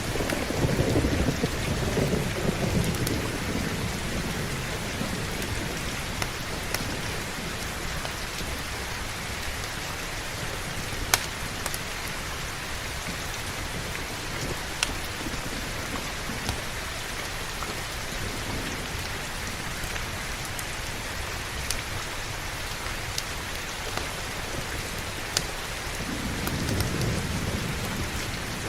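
Steady heavy rain with low rolls of thunder in the first few seconds and again near the end, and a few scattered sharp pops.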